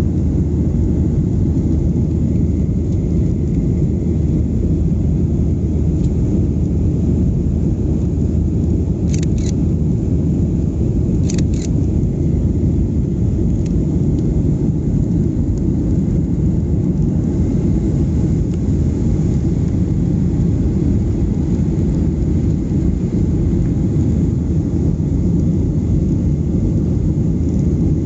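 Cabin noise inside a Boeing 737-800: a steady, loud low rumble of its CFM56 jet engines and airflow. Two short double clicks come about nine and eleven seconds in.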